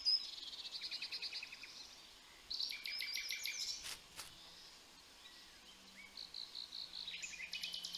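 Several songbirds singing and chirping outdoors, with overlapping rapid trills and repeated high chirps. They are loudest near the start, around 3 seconds in and near the end, with a row of evenly spaced chirps a little before the end.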